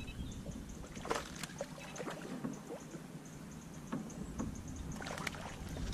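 Quiet sounds aboard a fishing boat on a lake: low wind rumble on the microphone, easing off midway and returning near the end, with a few light knocks and clicks and faint high ticking.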